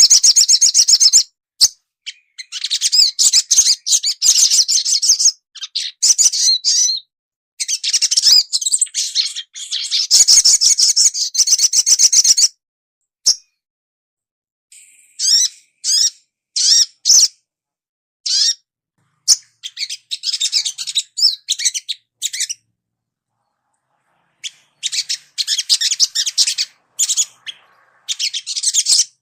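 Sogon bird singing: high, rapid twittering trills in bursts of one to five seconds, each broken off by a short silence.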